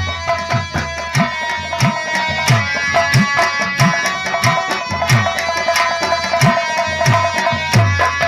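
Nautanki instrumental tune (nagma): hand drums play a steady rhythm with low bass strokes that bend down in pitch, under a melody instrument holding steady notes.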